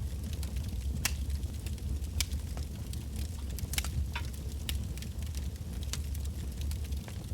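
Wood fire burning, with irregular sharp crackles and pops of burning logs over a steady low rumble of the flames.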